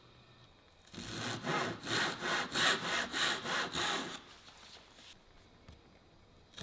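Hand saw cutting wood in quick back-and-forth strokes, about three a second, for roughly three seconds, then stopping.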